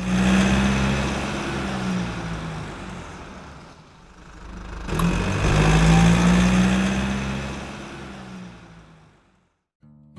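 Car engine sound effect: a loud engine drone that fades over the first four seconds, a sharp hit about five seconds in, then a second engine swell that fades out shortly before the end.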